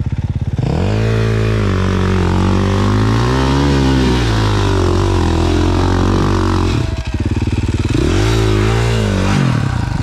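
450 four-stroke dirt bike engine opening up from a low, pulsing idle about half a second in and revving under load on a hill climb, the revs rising and falling with the throttle. It drops off briefly near seven seconds, then revs up again twice.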